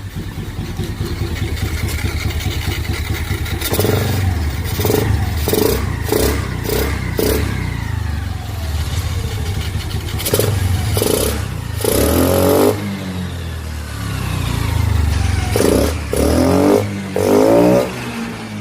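Honda Dio 110 scooter's single-cylinder engine running with its air filter opened, idling between throttle blips. It is revved in a quick run of short blips about four seconds in, again around ten to twelve seconds, and in longer revs near the end.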